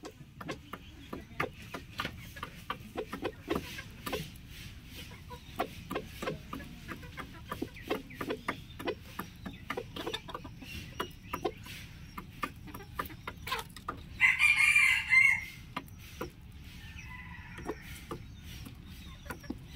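Chickens clucking at feeding time, with many short clucks and clicks throughout. About two thirds of the way in, a rooster crows once for about a second and a half, the loudest sound here.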